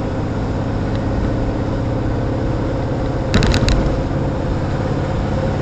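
Steady low drone of an old car's engine and road noise while driving over a rough back road, with a short cluster of sharp rattles about three and a half seconds in. The owner suspects the engine still has a fuel problem.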